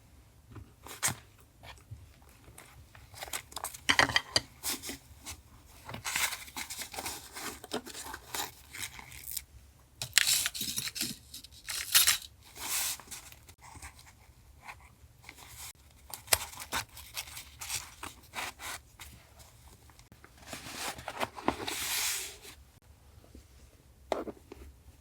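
Paper collage materials being handled: paper rustling and tearing in irregular bursts, with sharp taps and clicks between them.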